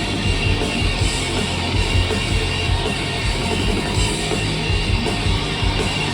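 Rock band music with guitars and drums playing a song.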